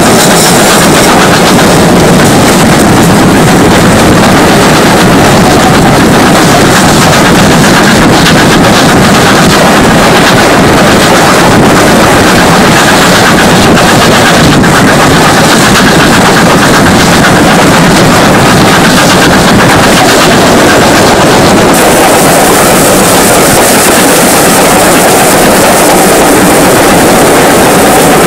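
Steam-hauled train on the move: a loud, unbroken rumble and rattle, with wind on the microphone.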